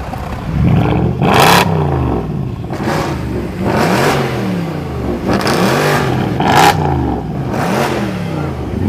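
Mercedes-AMG engines revving hard in a rev battle between two C63s and an ML63. There are about six sharp blips in a row, each rising and then falling in pitch.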